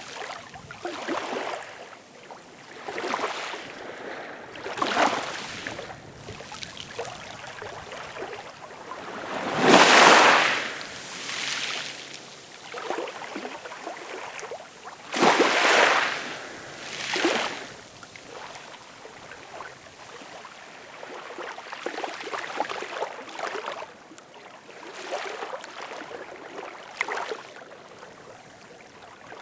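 Ocean waves breaking and washing up on a shore, in irregular swells over a steady surf rush. The loudest wave breaks about ten seconds in, another around fifteen seconds, with smaller ones between.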